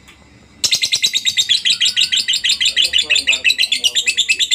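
Lovebird's long 'ngekek' chatter: a fast, unbroken run of shrill, even notes, about ten a second, starting after a brief pause about half a second in.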